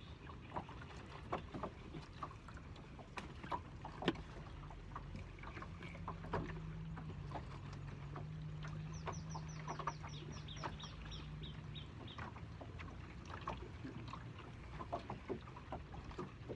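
Small fishing boat at rest on the water: scattered knocks and taps of fishing gear and hull over a low wash of water. A steady low hum comes in about five seconds in and fades near twelve seconds, and a quick run of high, falling chirps sounds near the middle.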